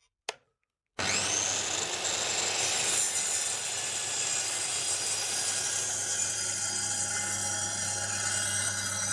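Ryobi circular saw starting up suddenly about a second in and running steadily as it cuts through form ply, a waterproof plywood.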